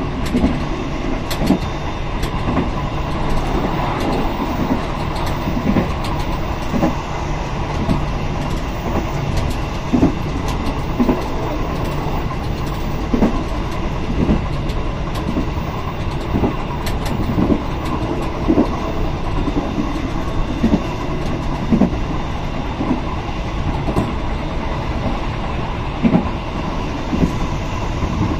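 Passenger train running along the track, heard from on board: a steady rumble of wheels on rail, with a clack from the rail joints every second or two.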